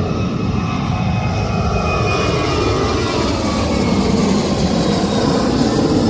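Jet airliner engines running loud as the aircraft departs, a dense steady noise with whining tones that slide down in pitch as it passes, growing slightly louder toward the end.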